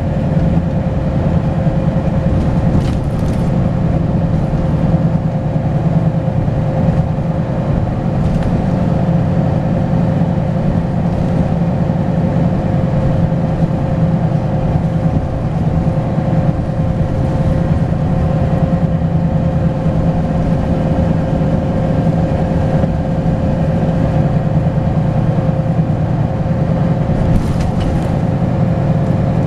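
Volvo B10BLE single-decker bus engine running at a steady speed, with a continuous turbo whistle held at one pitch over the low engine drone.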